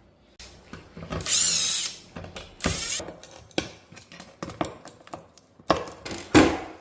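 Power drill running in short bursts, the longest about a second in with a wavering high whine, with clicks and knocks between the bursts.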